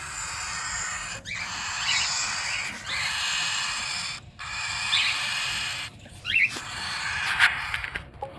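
Cockatiel raspy hissing calls: about five breathy bursts, each a second or so long, with short gaps between them and a few quick chirps inside them.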